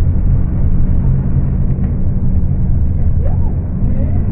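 Scania K250UB city bus engine running steadily at high revs while the bus is under way, a loud, constant low drone. The engine is described as screaming hard.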